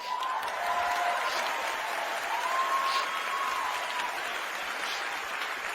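Large theatre audience applauding, breaking out all at once and then slowly dying down, with a few faint voices calling out in the crowd.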